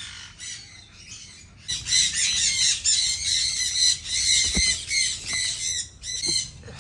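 Parrots squawking: harsh, overlapping calls that swell into a loud, dense chorus about two seconds in and ease off near the end.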